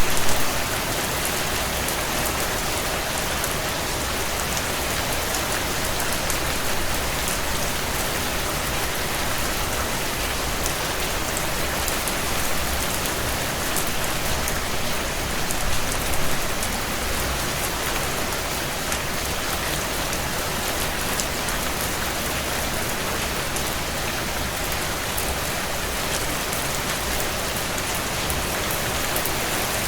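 Heavy rain on a tin roof: a steady, dense patter of drops, with brief louder swells right at the start and about sixteen seconds in.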